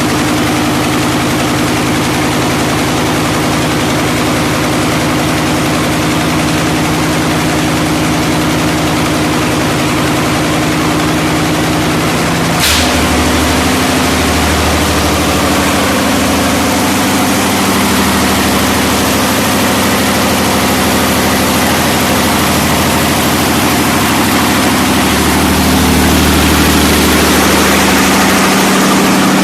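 Freshly rebuilt YaMZ-240 V12 diesel engine running at a steady idle. About twelve seconds in there is a sharp click and the engine note shifts. It gets a little louder near the end.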